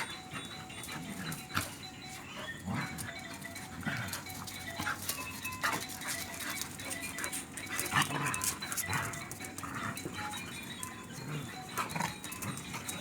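Two dogs play-fighting, with short growls and yelps coming again and again, over music playing in the background.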